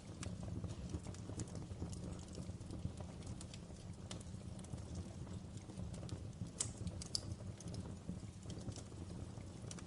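Fireplace fire crackling: irregular sharp pops and snaps over a steady low rumble, with two louder pops a little past halfway.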